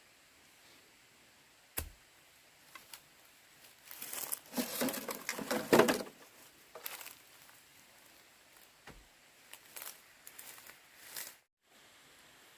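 Rustling and crinkling of something being handled, loudest for about two seconds in the middle, with a sharp knock before it and a few light clicks after.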